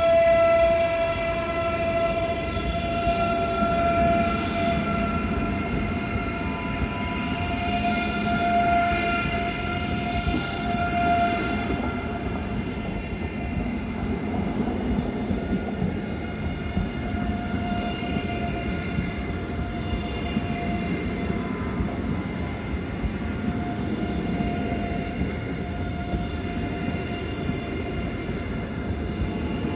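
A train running by on the line: a continuous rumble with a steady high-pitched tone held over it, fuller in the first dozen seconds and easing after that.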